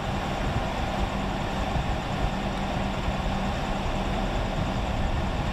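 Steady in-cabin vehicle noise: the engine running with a low, even hum under a constant hiss.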